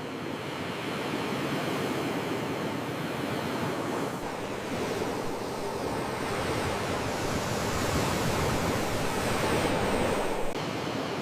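Sea waves washing in as a continuous rushing surge that slowly swells and eases back a little about ten seconds in.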